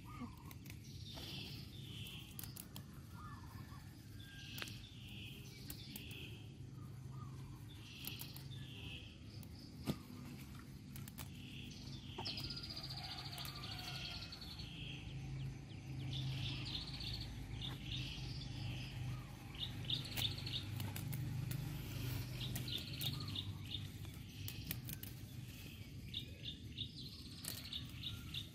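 Small birds chirping over and over, short high notes often in quick pairs, with a faint steady low hum underneath.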